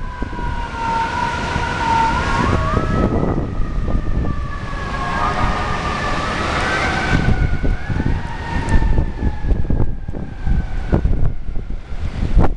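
Several emergency-vehicle sirens wailing at once, their pitches slowly sliding up and down and overlapping, with blizzard wind gusting heavily on the microphone beneath them.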